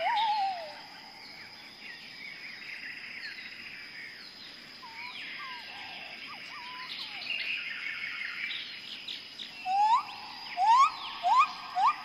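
Birds chirping and whistling in a birdsong ambience, with a falling warbled note at the start and a run of quick rising whistles near the end.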